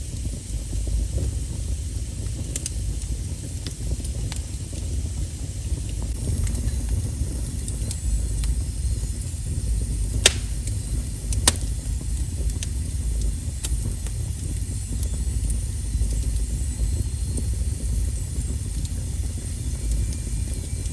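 Wood fire burning with a steady low rumble and scattered light crackles. Two sharper pops come about halfway through, a second or so apart.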